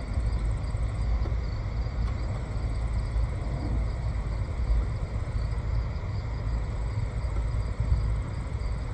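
Steady low rumble with a faint high steady whine above it.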